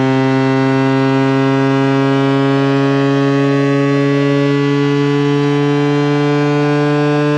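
Speaker-cleaning water-eject tone: a loud, low electronic buzz rich in overtones, its pitch slowly rising.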